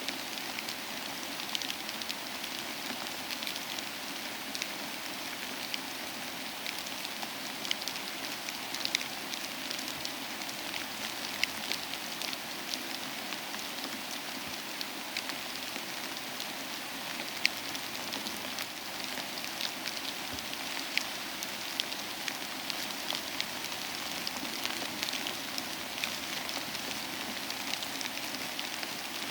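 Steady soft rain with a fireplace crackling, sharp little pops scattered throughout.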